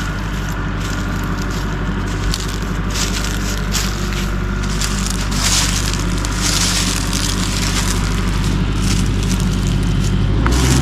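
A machine's engine running steadily while a dead pine tree is pushed over, its wood repeatedly cracking and splintering.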